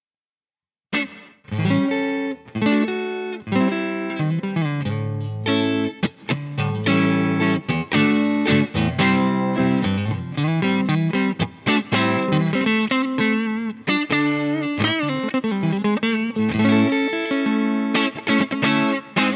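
Electric guitar with single-coil pickups played through a tube preamp pedal and a speaker-cabinet simulation, a passage of chords and single notes that starts about a second in after a moment of silence.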